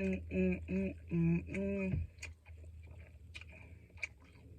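A woman's voice making four short, steady-pitched wordless sounds over about two seconds, then scattered soft clicks from eating, over a low steady hum.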